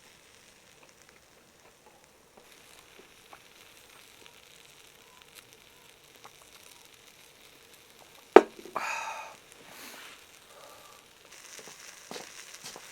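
Meat sizzling faintly on a shichirin charcoal grill, with one sharp clack a little past eight seconds in and a short burst of noise right after it.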